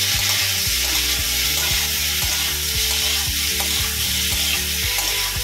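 Potato cubes and ridge gourd pieces sizzling steadily in hot oil in a steel wok as they are sautéed with spices. A metal spatula stirs them, scraping and knocking against the pan.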